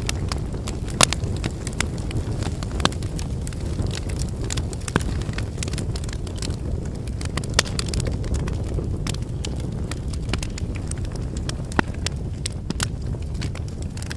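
Wood campfire burning: a steady low rumble of the flames with firewood crackling and popping at irregular moments, a few pops sharper than the rest.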